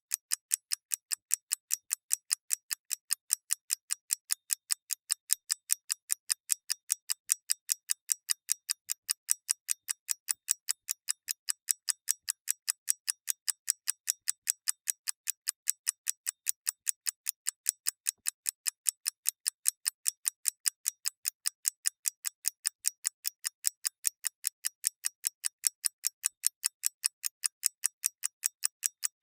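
Clock mechanism ticking: rapid, even, crisp ticks, several a second, unbroken throughout.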